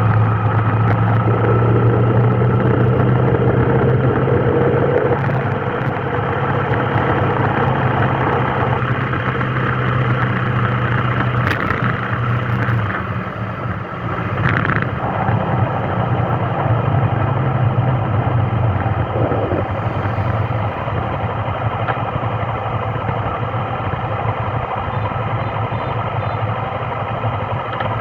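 A vehicle engine running in traffic: a steady low engine hum over road noise, its pitch stepping down and up a few times as it idles and creeps along.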